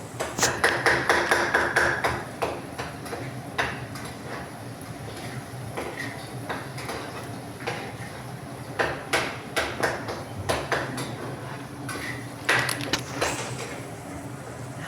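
Kitchen utensils knocking and clinking against cookware, some strikes ringing briefly. A quick run of knocks comes in the first couple of seconds and another cluster comes later on.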